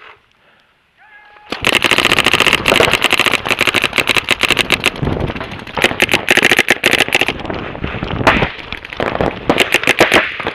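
Paintball markers firing rapid, overlapping strings of shots, starting about a second and a half in and going on with only short breaks.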